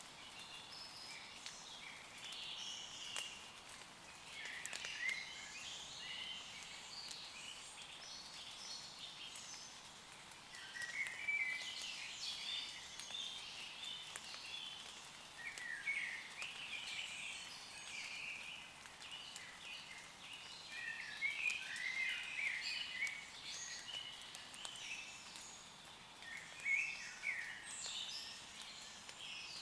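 Several woodland birds chirping and singing in overlapping phrases throughout, over light rain pattering on leaves.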